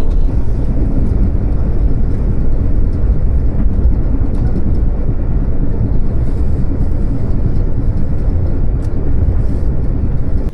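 Steady, loud low rumble of a passenger train running along the track.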